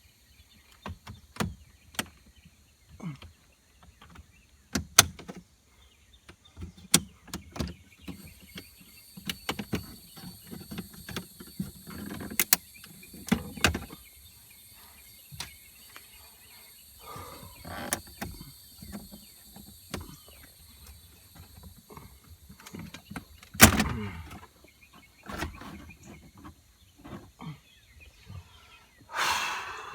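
Scattered clicks, knocks and rattles of hands handling car dash parts and stereo wiring, the loudest knock a little over two thirds of the way in and a rustling scrape near the end. A faint steady high tone runs behind them and grows stronger from about eight seconds in.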